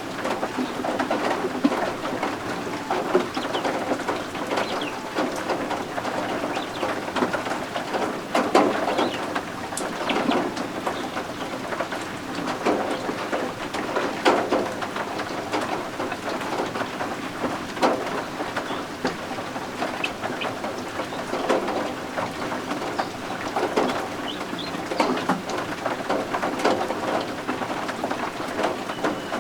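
Steady rain, with baby guinea fowl keets calling now and then over it.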